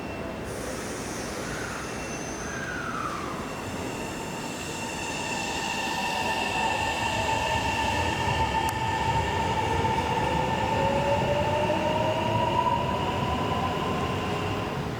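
Kintetsu electric train moving through the platform with high whining tones, one slowly rising in pitch, over a rumbling wheel noise. The sound grows louder through the middle and eases off near the end.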